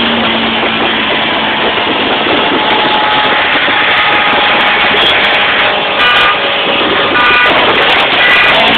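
Vehicles accelerating hard in a roll race between a Honda Civic coupe and a diesel truck: loud, steady engine and road noise with faint whining tones over it.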